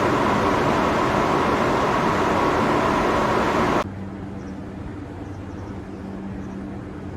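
A 701 series 5000-subseries electric train: a loud, steady running rumble with a steady high tone. About four seconds in it cuts off abruptly to a much quieter, steady low hum.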